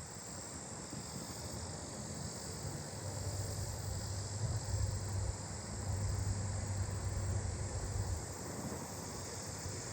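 Outdoor insect chorus, with lesser pine katydids among the callers, making a steady high buzz. A low vehicle rumble swells in the middle and fades near the end.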